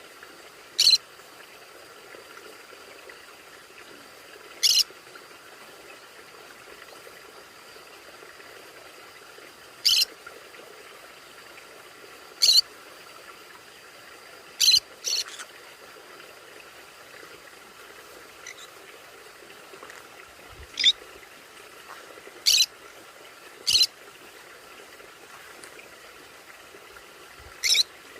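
Conures giving short, high-pitched calls, about ten of them spaced irregularly a few seconds apart, over a faint steady background.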